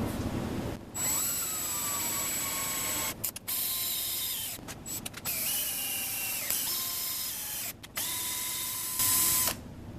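Handheld electric drill/driver motor run in about five short bursts of one to two seconds each. The motor whines up to speed at the start of each burst and then holds a steady pitch.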